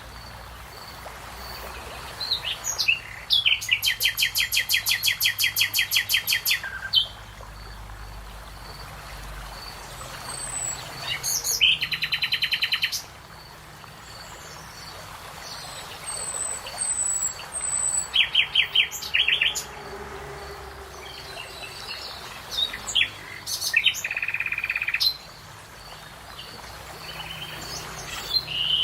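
Songbirds singing: four fast trills of rapidly repeated high notes, the first and longest lasting about four seconds, with short scattered chirps in between over a soft steady background.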